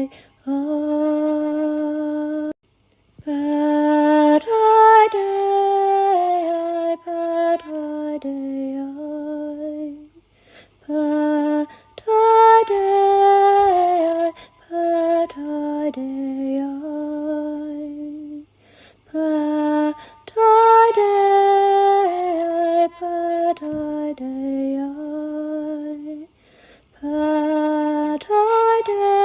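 A woman singing a slow, chant-like healing melody alone and unaccompanied, in held notes that step between pitches. Her phrases are broken by short pauses, and a similar phrase returns about every eight seconds.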